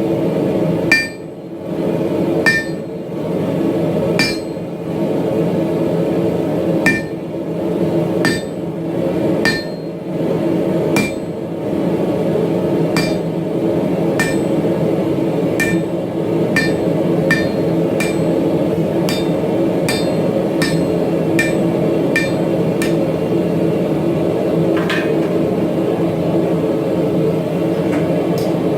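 Hammer blows on metal at a post anvil, each strike ringing briefly, about one a second, with the pace slowing near the end. A steady low hum runs underneath.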